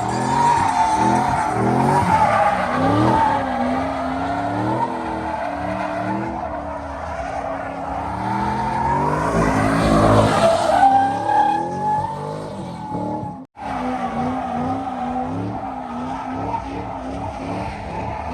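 A car doing donuts or a drift: tires squealing steadily on pavement while the engine revs up and down under load. The sound breaks off for an instant about two-thirds through, then the squealing and revving go on.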